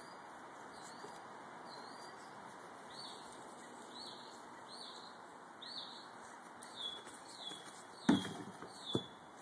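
A bird calling over and over, a short falling chirp repeated a little faster than once a second. About eight seconds in, a small basketball hits a plastic toy backboard with a loud knock, followed by a second, smaller knock about a second later.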